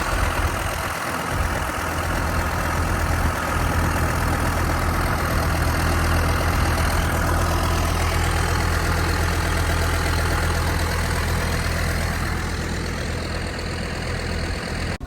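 Tractor engine running steadily while the tractor is driven slowly, a constant low engine hum.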